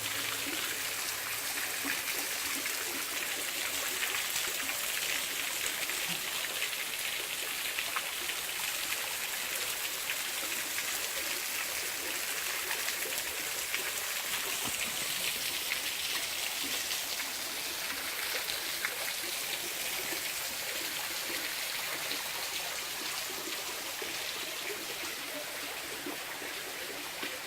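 Fresh mountain water running steadily: a continuous rushing hiss.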